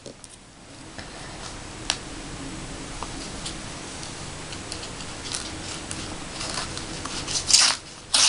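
A paper envelope being handled and worked at with a letter opener: a few soft ticks over a faint steady hiss, then crisp paper rustling and crinkling in the last two seconds or so.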